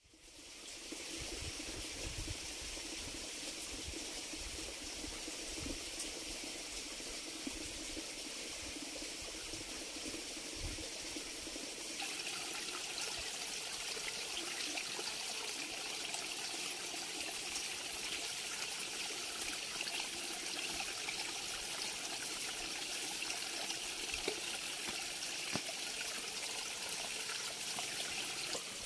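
Steady rush of running water, like a stream. About twelve seconds in it grows brighter and a little louder.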